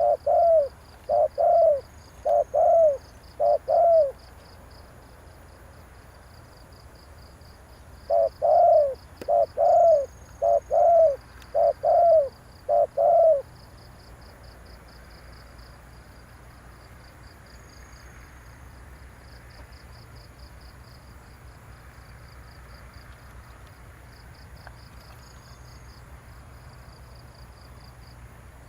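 Spotted dove cooing in two runs of repeated, evenly spaced coos, a few seconds apart: the cu gáy call used to rouse a decoy dove. A steady, fast-pulsing insect chirring runs underneath and is all that is left after the second run.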